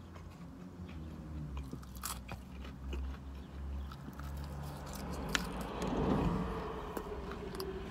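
Close-up chewing and crunching of fried chicken and slaw, with small clicks and scrapes of a plastic fork against a takeout bowl, and a brief louder rush of noise about six seconds in.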